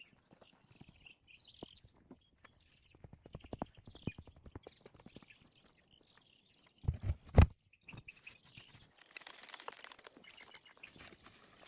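Work sounds in the open: a run of light taps and clicks, then three heavy thuds close together about seven seconds in, followed by a rustling scrape. Birds chirp faintly throughout.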